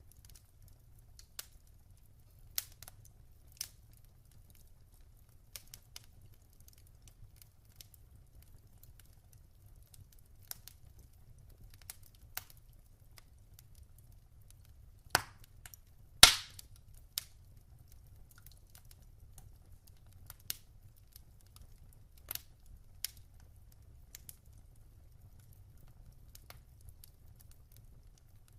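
Wood fire crackling in a fireplace: scattered sharp pops and ticks, two much louder pops about halfway through, over a faint low rumble.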